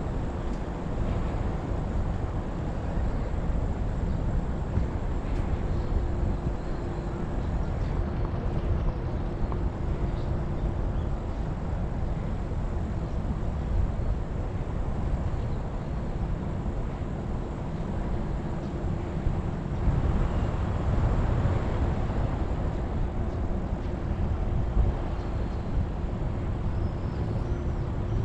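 Rumble of wind on a bike-mounted action camera's microphone with road noise while cycling. A faint steady hum runs underneath, and the noise swells for a few seconds about twenty seconds in, likely passing traffic.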